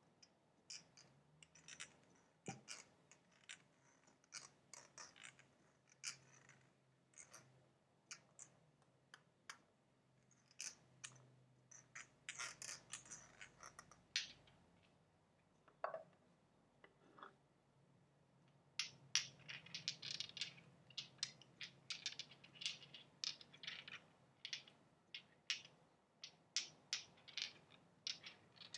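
Soft, close-up ASMR tapping and scratching: irregular light clicks and short scratches, thickening into denser crackling runs about halfway through and again in the latter part.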